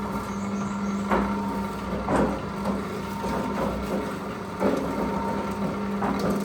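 Concrete mixer running: a steady motor hum with irregular sharp knocks from the turning drum.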